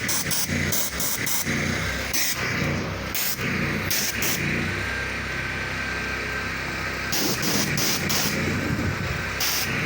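Pressure washer's engine running steadily, with short bursts of high hiss several times.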